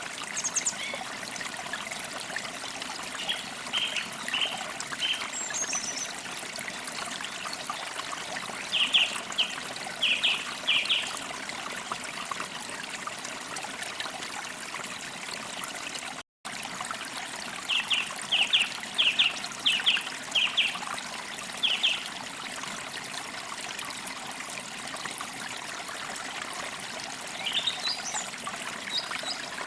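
Wild songbirds singing short repeated phrases of quick notes over a steady trickle of running stream water. The whole sound cuts out for an instant about sixteen seconds in.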